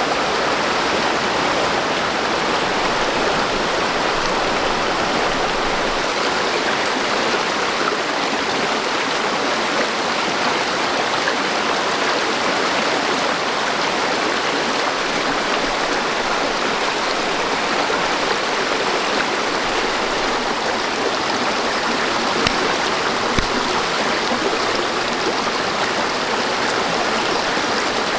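Steady rush of flowing water, with two small knocks about three-quarters of the way through.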